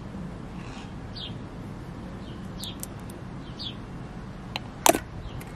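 Small birds chirping repeatedly in short, quick, falling notes over a steady low background hum. Near the end a single sharp click, the loudest sound, as a hand handles the swing-top glass jars.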